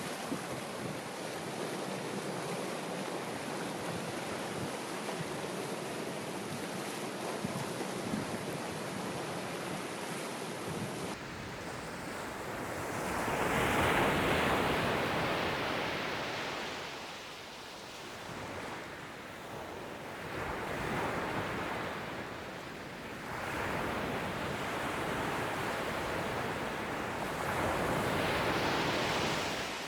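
Ocean surf: a steady wash of waves, changing abruptly about a third of the way in to waves breaking in separate surges every few seconds, swelling and fading.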